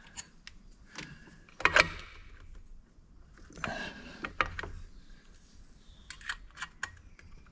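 Small metal parts clicking and rattling as shifter cables and their retaining pins and clips are handled and fitted. There is a short rattle about two seconds in, a longer one around the middle, and a few sharp clicks near the end.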